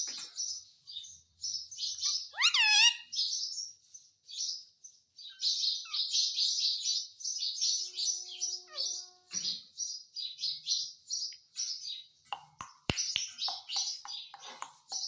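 Indian ringneck parrot chattering with rapid high-pitched chirps throughout, with one loud call that drops in pitch about two and a half seconds in. A sharp click comes about thirteen seconds in.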